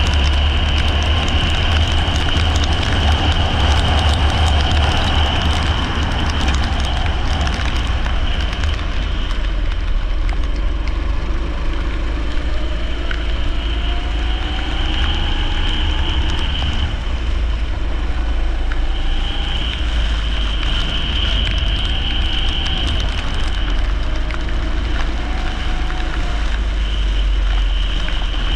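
Leisure racing kart engine running under load, its pitch rising in repeated sweeps as the kart accelerates, over a heavy low rumble of wind on the microphone and a wet-track hiss.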